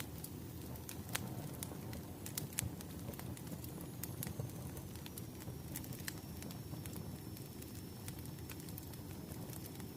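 Wood fire burning: a steady low rumble of flames with frequent sharp, irregular crackles and pops from the burning logs, and a faint thin high whistle through the middle and later part.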